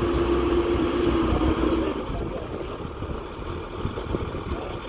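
Diesel engine of the earthmoving machinery running with a steady low rumble. A steady whine over it cuts off about two seconds in, and the sound drops a little quieter after that.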